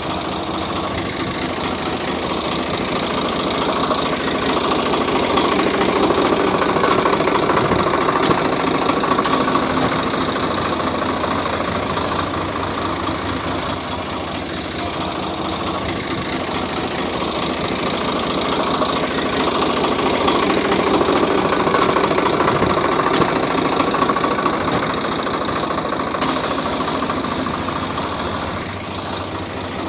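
An engine running steadily with a knocking, idling character. It swells louder twice, as if coming closer and moving away.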